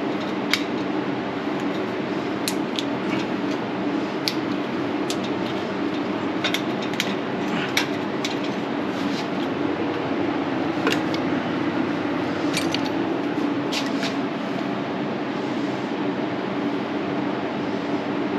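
Scattered light metallic clicks and taps of hand tools on metal over a steady mechanical hum.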